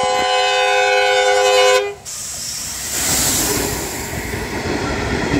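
Long horn blast from the Doodlebug railmotor, several tones sounding together, cutting off about two seconds in. It is followed by the rumble and wheel noise of the railmotor running past on the track.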